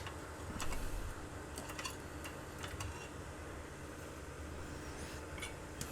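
Faint, scattered light clicks and taps of small tools being handled at an electronics workbench, about half a dozen in all, over a low steady hum.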